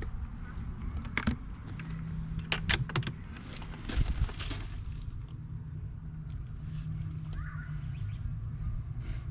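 Footsteps while walking outdoors: a few irregular sharp knocks and crunches over a steady low rumble.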